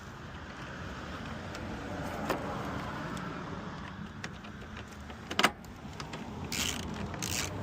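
Screws being driven back into the radiator fan mounts with a ratchet, giving short bursts of ratchet clicking near the end over a steady low hum, with a sharp click about halfway through.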